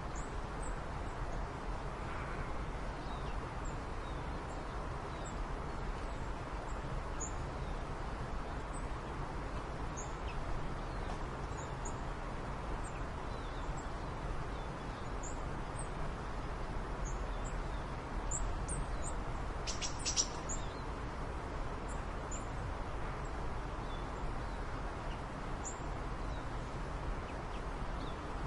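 Birds chirping: many short, high chirps scattered over a steady background hiss, with one brief louder call about twenty seconds in.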